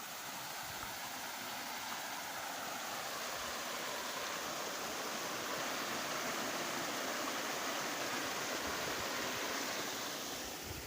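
Waterfall's falling water rushing in a steady hiss, slowly growing louder over the first several seconds.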